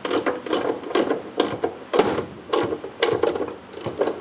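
Hand ratchet wrench clicking in quick runs of short strokes, with metal rattling, as subframe mounting bolts are run in.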